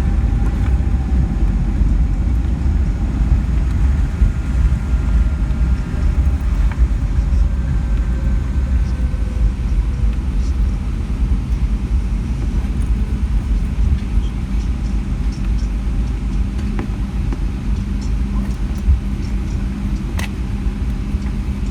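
Inside the cabin of a Boeing 757-200 on the ground: a steady, loud low rumble of the engines and the wheels rolling on the pavement, with a faint engine whine slowly falling in pitch over the first ten seconds or so.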